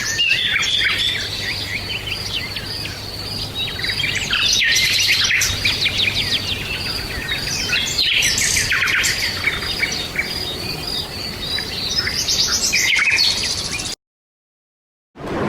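Forest birdsong ambience: many birds chirping and calling in quick overlapping phrases over a steady high tone and a faint low hum. It cuts off abruptly about a second and a half before the end, and noise like rain begins right at the very end.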